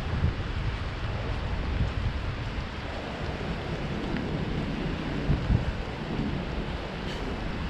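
Steady rain falling, with gusts of wind rumbling on the microphone.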